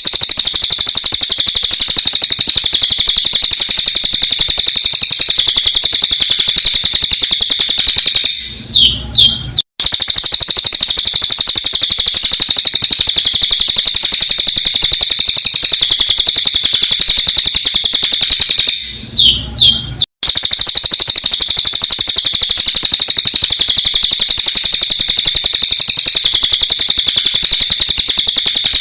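Sped-up cililin bird song: a loud, sharp, very rapid and dense trill of high notes, played in runs of about eight seconds. Twice the trill breaks off for about a second, with a few separate chirps, and then starts again.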